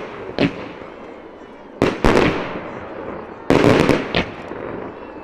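Aerial firework shells bursting at close range: a small bang about half a second in, then loud bangs about two seconds in and again about three and a half seconds in, each trailing off in a long echoing tail.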